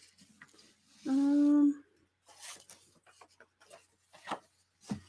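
A woman's drawn-out, level 'mmm' hum while she thinks, followed by soft rustles and light taps of paper being handled.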